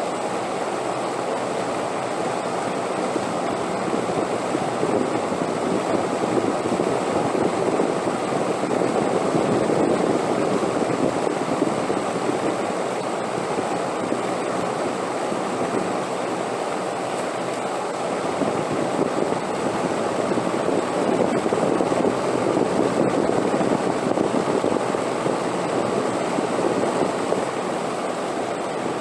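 Steady rushing wind, swelling gently twice and easing back, with no gusts or breaks.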